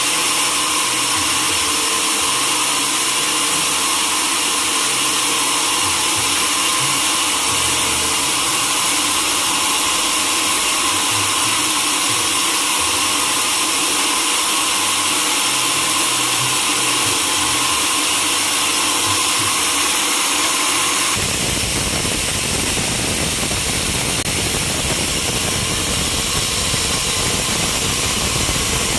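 Sawmill saw running through a large mahogany log: steady, loud machine noise with a high whine. About 21 seconds in the sound changes abruptly and turns deeper and rougher.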